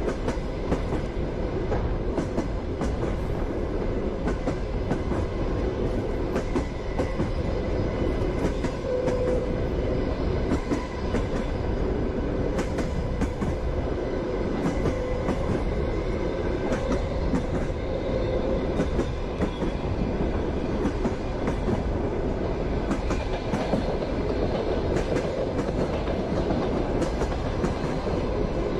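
Passenger train running on the rails: a steady rumble with the wheels clicking and clacking irregularly over the track, and a faint steady hum.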